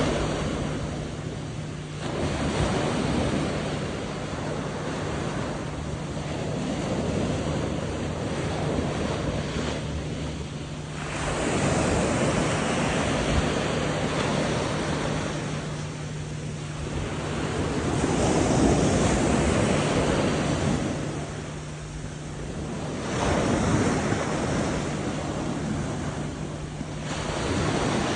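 Sea surf breaking on the shore, the rush of the waves rising and falling every few seconds, with wind buffeting the microphone.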